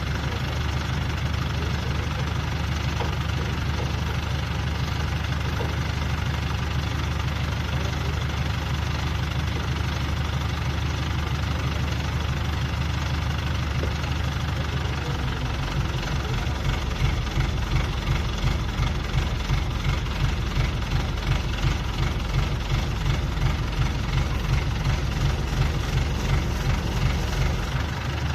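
Heavy farm diesel engine running at idle with a knocking beat. About halfway through, a regular pulsing sets in, roughly two beats a second.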